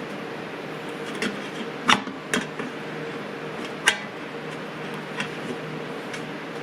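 Sharp metallic clicks and taps of a tool working the small sheet-metal tabs of a Briggs & Stratton recoil starter housing to bend them back over the wound-up pulley: two clear clicks about two seconds apart with fainter taps between, over a steady low hum.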